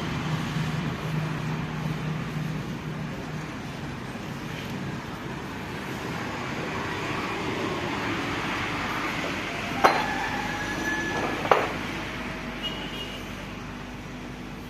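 Two sharp metallic clinks, each with a brief ring, about ten and eleven and a half seconds in, over a steady low background noise.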